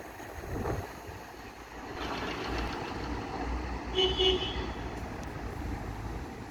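Low rumble of a train on the line under steady outdoor noise, with a short pitched tone about four seconds in.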